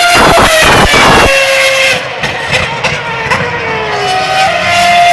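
Formula 1 car's 2.4-litre V8 engine running at high revs, its pitch sliding slowly down and then stepping back up about four and a half seconds in. A brief rushing noise comes in the first second.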